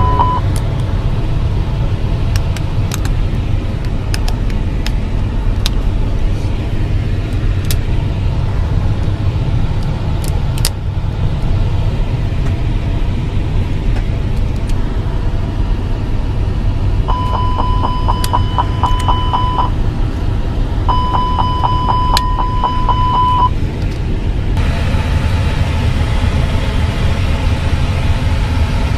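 Steady low rumble of an Airbus A350-1000 airliner in motion, with scattered clicks. Two short runs of rapid beeping on one high tone sound a little past halfway, and the rumble changes abruptly about three-quarters of the way through.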